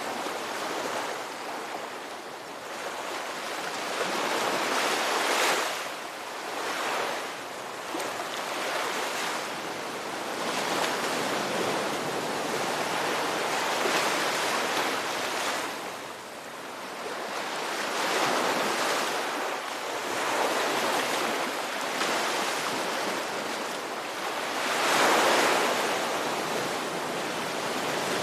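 Ocean surf: waves breaking and washing in, a steady rushing that swells and ebbs every few seconds, with the biggest breaks about five seconds in and near the end.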